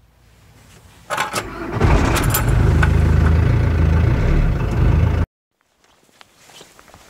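Volkswagen car engine being started: the starter cranks about a second in, the engine catches and runs steadily at idle, then the sound cuts off suddenly about five seconds in.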